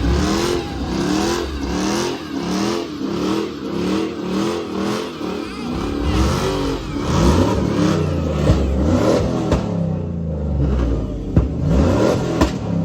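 Car engine revving in quick repeated throttle blips, about one every half second, then longer revs that rise and fall in pitch, with a few sharp cracks near the end.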